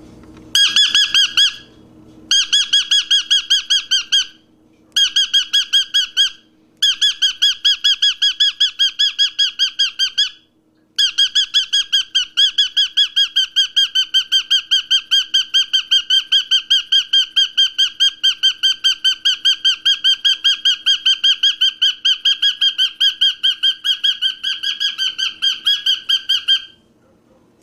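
A bird calling in a fast, even run of identical high chirps, about six a second, in several bursts broken by short pauses, the last one long.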